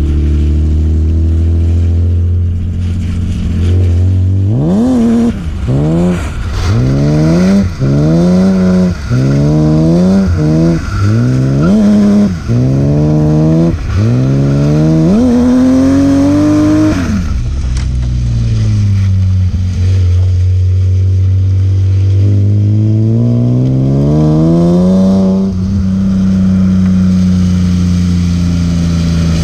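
BMW E36 M3's S50B30 straight-six engine and exhaust under repeated hard throttle: about ten quick climbs in pitch, each cut short by a sudden drop, over some twelve seconds. It then falls to a low steady drone, climbs once more more slowly, and holds a steady higher note.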